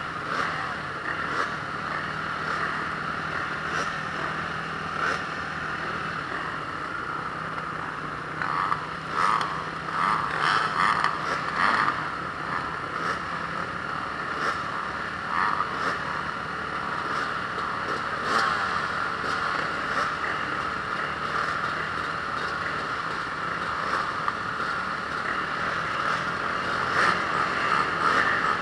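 Honda CRF450R single-cylinder four-stroke motocross engine running hard under race load. The engine note rises and falls, with a cluster of louder surges of throttle about a third of the way in.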